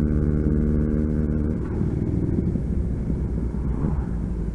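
Motorcycle engine running at a steady note under way, with wind and road rumble; about a second and a half in, the even note breaks up into a rougher, lower rumble as the throttle eases.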